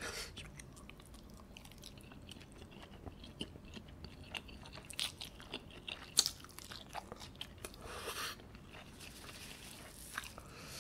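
Close-miked mouth sounds of eating cheese-topped dumplings in spicy sauce: soft wet smacking and chewing with many small clicks, the loudest smack about six seconds in as the dumpling goes into the mouth.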